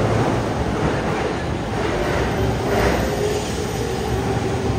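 Electric commuter train pulling out along the platform: a steady rumble of wheels on rail, with a faint motor whine that rises a little in pitch near the end as it gathers speed.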